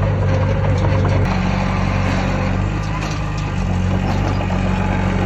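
Heavy diesel engine of earthmoving machinery running steadily, its pitch shifting slightly about a second in.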